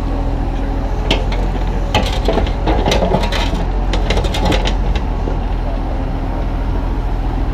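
Kubota U35-3 mini excavator's diesel engine running steadily while stones clatter and knock against the bucket and each other for a few seconds, from about a second in to about five seconds in.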